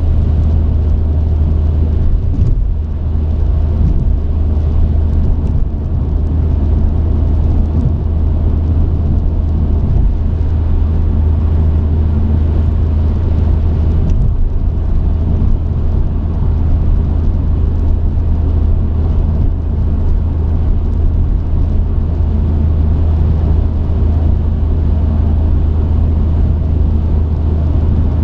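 Truck engine and road noise as the truck drives, a steady low drone.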